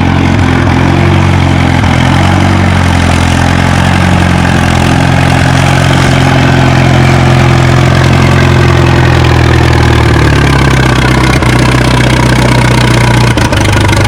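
Big vintage Case tractor engine running hard under full load, pulling a weight-transfer sled. The pitch sags near the end as the engine runs out of power.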